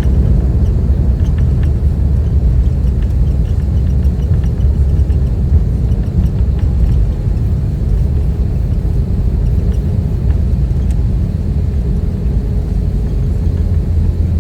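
Steady low rumble inside the cabin of an Airbus A320-214: its CFM56 engines and the airflow around the fuselage, heard from a passenger seat around landing. It eases a little about halfway through.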